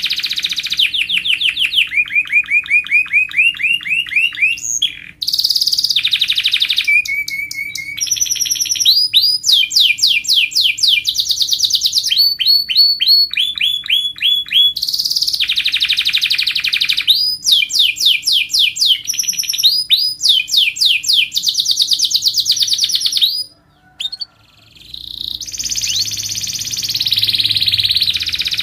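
Canary singing a continuous song of rapid trilled phrases. Each phrase is a fast run of identical notes that switches to a new pitch and pattern every second or two, with a brief break about three-quarters of the way through.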